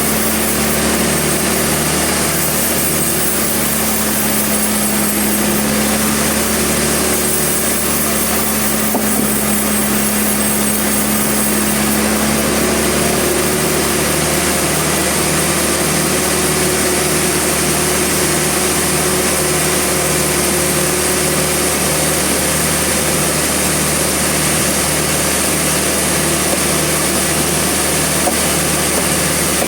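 Sawmill machinery running steadily: a loud engine-like drone with an even pulsing beat, its main tone moving higher about halfway through.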